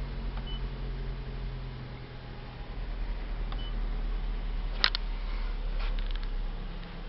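Mazda 3 2.0-litre four-cylinder engine idling steadily. Two short high beeps sound about half a second in and again about three and a half seconds in, and a sharp click comes near five seconds.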